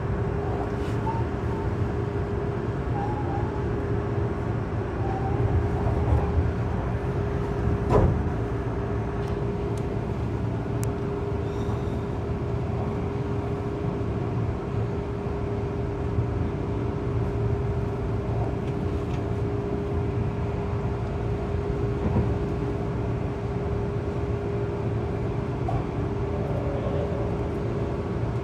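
Tobu N100 series Spacia X electric express train running, heard from inside at the front of the train: a steady rumble with a constant hum, and a sharper knock about eight seconds in.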